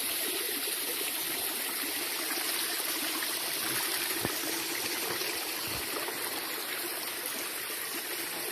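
A small waterfall running steadily, a continuous rush of falling water.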